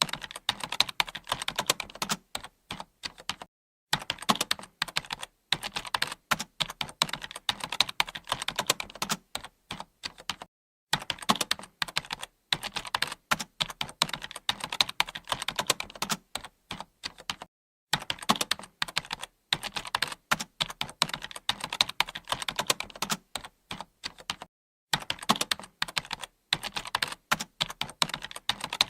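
Computer keyboard typing: rapid, continuous keystroke clicks in runs of several seconds, broken by brief pauses about every seven seconds.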